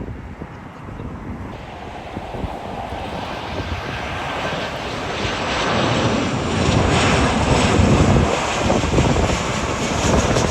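Airliner's engines, a broad rushing noise that grows steadily louder as the aircraft comes nearer, loudest about seven to eight seconds in.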